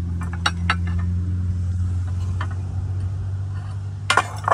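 A motor vehicle's engine running with a steady low hum that swells slightly and eases off, with a couple of sharp clicks about half a second in and a short clatter near the end.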